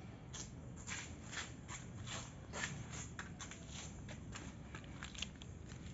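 Faint, irregular clicks and crackles, a dozen or more spread unevenly, over a low steady background rumble.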